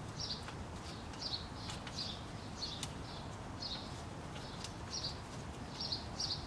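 A small bird chirping over and over, short high calls about every half second, over a steady low background rumble with a few faint clicks.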